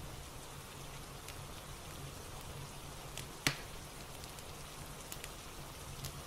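Steady rain ambience with the scattered light crackles of a fireplace, and one louder pop about three and a half seconds in.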